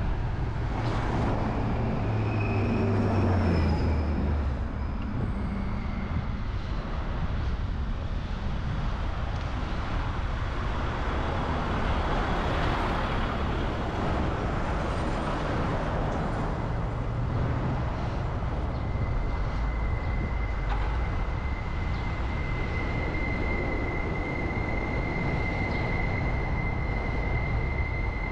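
Steady traffic rumble and road noise heard from a moving bicycle, with a thin, steady high whine that comes in about two-thirds of the way through and holds.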